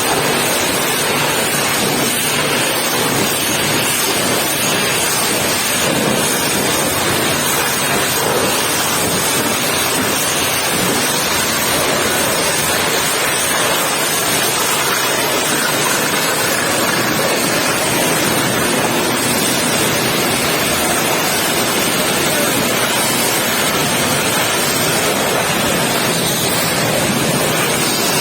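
Pressure washer spraying water against a truck: a loud, steady hiss of spray that runs on without a break.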